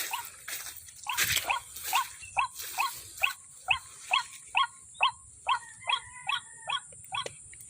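White-breasted waterhen calling: a long series of short, rising, croaking notes, about two a second, with a second overlapping voice joining in the latter half before the calls stop shortly before the end.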